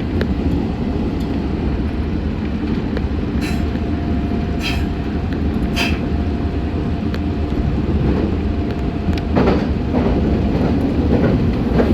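Meitetsu 6500 series electric train running, heard from inside the front car: a steady rumble of wheels and running gear, with a faint steady whine through the middle and a few short sharp clicks.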